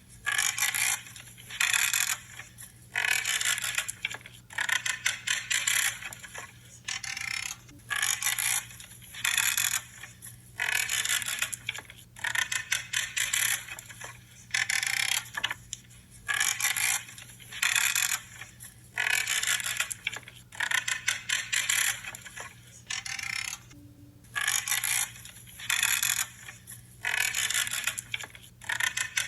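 Pruning shears cutting through branches, one creaking cut after another, each cut lasting under a second with a short pause between, about twenty in all.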